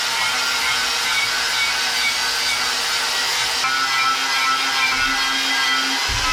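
Wire wheel on a power tool scrubbing rust and pitting off the bead seat of a steel tractor wheel rim, a steady grinding rasp.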